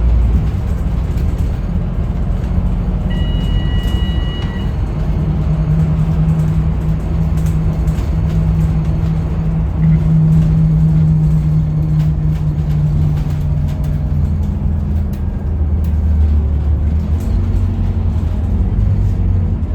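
A Scania K310UB bus's five-cylinder diesel engine runs with the bus under way. Its drone holds a steady pitch for several seconds, then settles lower near the end. A short electronic beep sounds about three seconds in.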